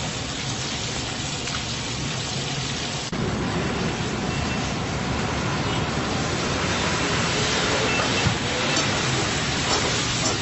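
Chicken pieces sizzling in hot oil in a karahi wok, a steady hiss that jumps louder about three seconds in. A few clinks of a metal spatula against the wok come near the end.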